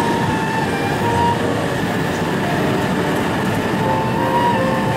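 An E2 series Shinkansen train pulling along the platform and gathering speed, with a steady rumble of wheels and running gear.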